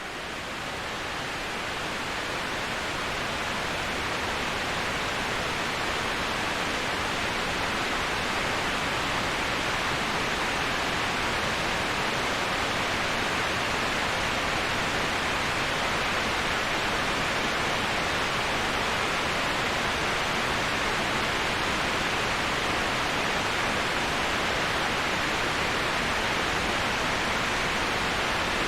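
Waterfall: a steady rushing hiss of falling water, swelling up over the first few seconds and then even throughout.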